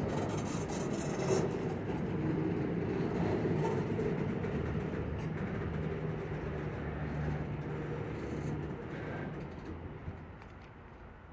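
Double-stack intermodal freight cars rolling past close by, with a steady low rumble of wheels on rail and some higher rattle near the start. The rumble dies down near the end.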